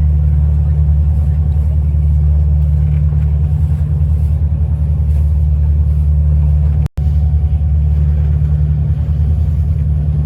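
Tour boat's motor running steadily at constant speed, a deep even drone, heard from aboard. About seven seconds in, the sound drops out for a split second.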